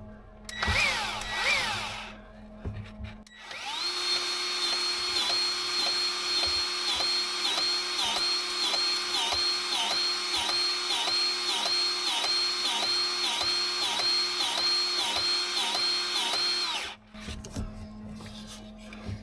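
Milwaukee cordless grease gun running, pumping grease into a Zerk fitting: two short spurts, then a long steady run with an even pulsing about twice a second, which stops suddenly near the end.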